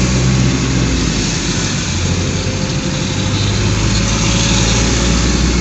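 Motor vehicle engine running steadily, its low hum under an even hiss.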